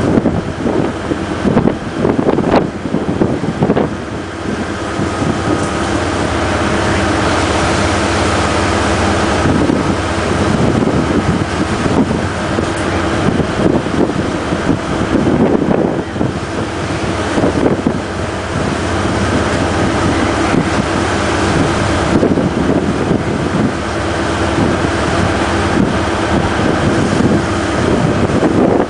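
A tugboat's engines running with a steady drone, mixed with wind buffeting the microphone and the rush of rough sea.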